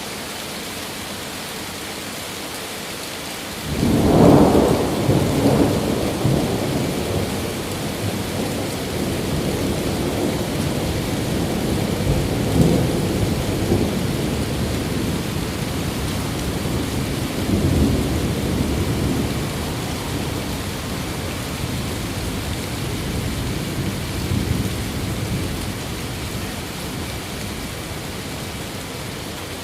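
Steady rain falling, then thunder breaks suddenly about four seconds in. It rolls on in several low rumbling swells and dies down near the end.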